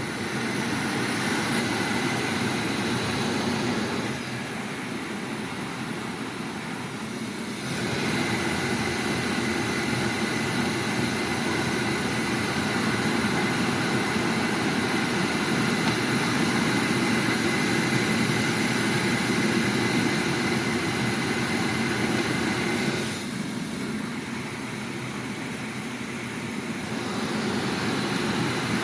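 Skoda Octavia A5 heater blower fan running, a steady rush of air with a faint high tone on top. Its level drops twice, about four seconds in and again near the end, then comes back up, as the fan speed is switched down and up.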